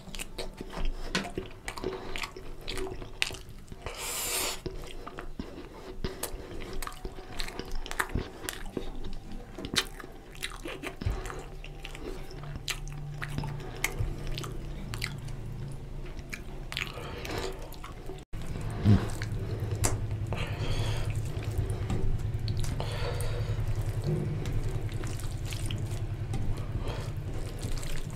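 Close-miked wet chewing, lip smacks and clicks as a man eats mutton curry and rice by hand, with fingers squishing the rice into the oily curry on a steel plate. After a brief cutout about two-thirds of the way through, a low steady hum runs underneath.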